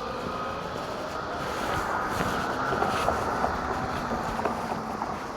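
E-bike riding noise: a steady motor whine over tyre and road rumble, the whine rising slightly in pitch and getting louder toward the middle, then easing off.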